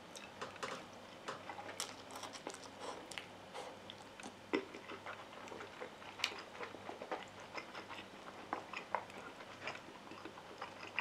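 A person eating instant fried noodles with chopsticks: close-up wet chewing, with many short, irregular mouth clicks and smacks.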